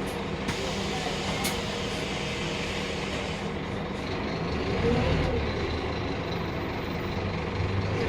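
Scania K310UB city bus running in service, a steady engine hum with road noise that swells briefly about halfway through.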